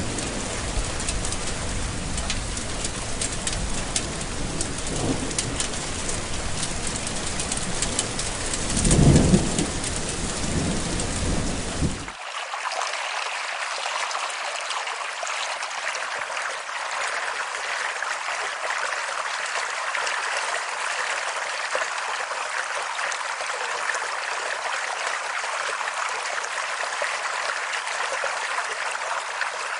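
Heavy rain falling with thunder rumbling, and a louder roll of thunder about nine seconds in. About twelve seconds in it cuts abruptly to steady running water, with no rumble left.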